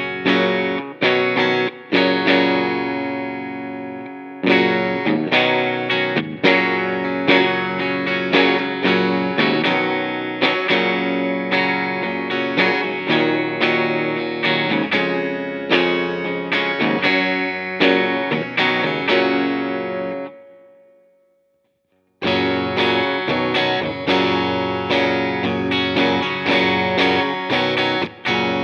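Electric guitar played clean through a digital Vox AC30 amp emulation with reverb, picked notes and chords. It fades out about 20 s in. After a short silence the same kind of playing resumes, the first take on a Flamma FS06 preamp pedal and the second on a Line 6 HX Stomp for comparison.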